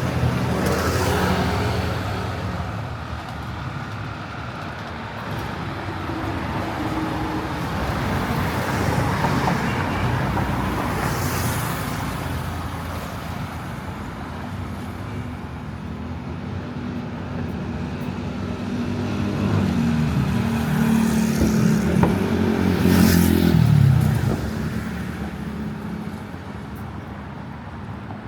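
Road traffic: car engines running and passing along a city street. Near the end one vehicle passes close by, the loudest thing heard, its engine pitch dropping as it goes past.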